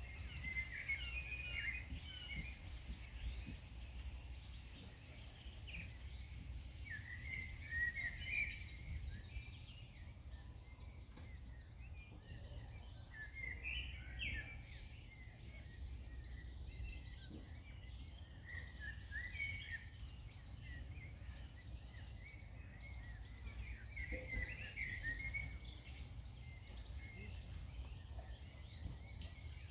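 Several songbirds singing in short chirping phrases that come and go, over a steady low rumble of wind.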